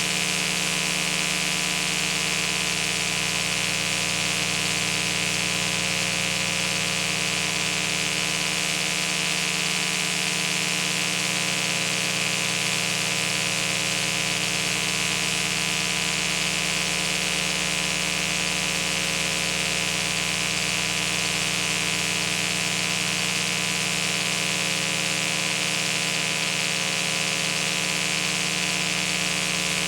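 Steady hiss with a constant hum made of many fixed tones, unchanging throughout.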